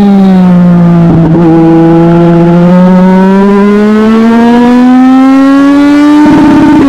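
Legend race car engine at racing speed. It falls in pitch as the car lifts off the throttle, with a brief roughness about a second in, then climbs steadily as the car accelerates for about five seconds. The pitch tops out and starts to fall again near the end as the driver lifts once more.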